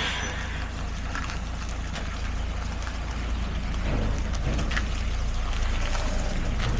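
Steady low rumble and hiss of wind buffeting the microphone outdoors, with a heavy truck's engine running underneath.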